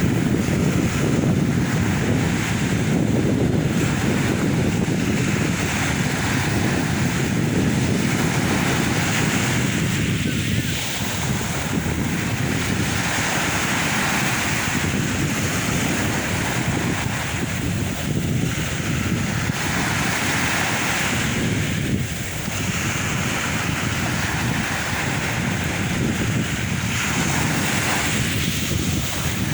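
Sea waves washing onto the shore in a continuous surf, the hiss swelling with each wave every several seconds, over a low rumble of wind buffeting the microphone.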